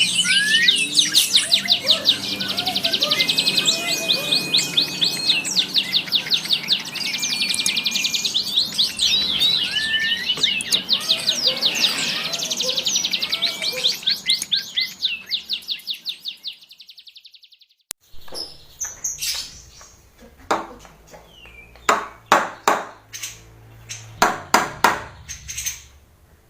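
Cucak jenggot (grey-cheeked bulbul) calling in rapid, dense, harsh runs of repeated high notes, which fade out about 16 seconds in. After a short break comes a series of sharp clicks and knocks.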